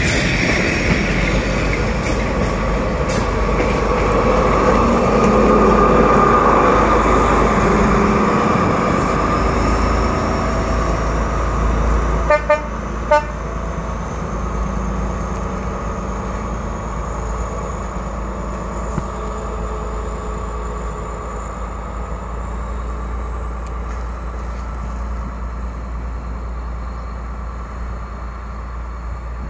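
Freight train hauled by D18E and D11H diesel locomotives rolling past and away, wheels rumbling over the rails. About twelve seconds in come a few short horn toots, after which the train's rumble grows fainter as it recedes.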